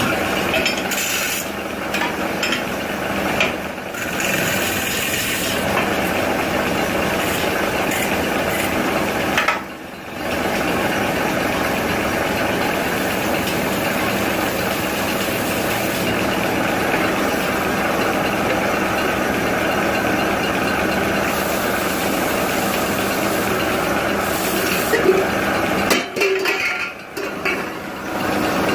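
A machine running steadily with a dense mechanical noise, briefly dropping out about ten seconds in and again near the end.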